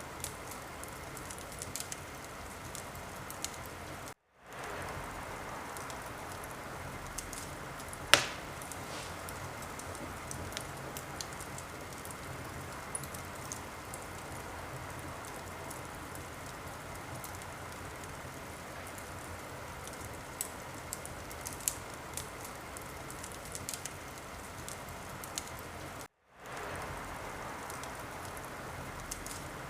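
Wood fire crackling in a fireplace: a steady hiss with scattered small pops and one loud, sharp pop about eight seconds in. The sound cuts out to silence twice, briefly, and fades back in.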